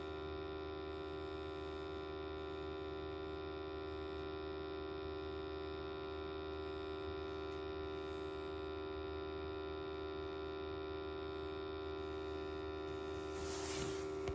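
A steady, even electrical hum with a buzzing edge, unchanging throughout, from equipment running at a firing gas boiler during a combustion test. A short rustle comes near the end.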